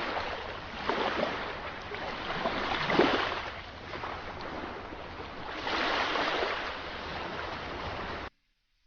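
Sea waves washing and breaking, the surf swelling louder three times, then cutting off suddenly near the end.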